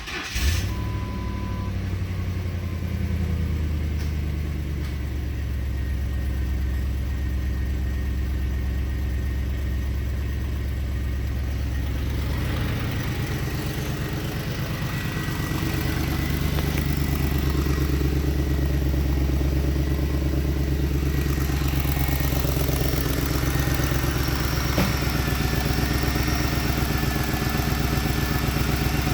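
2011 Lincoln Town Car's 4.6-litre V8 running just after starting, its fast idle settling lower over the first few seconds. It idles steadily, running somewhat louder from about sixteen seconds in.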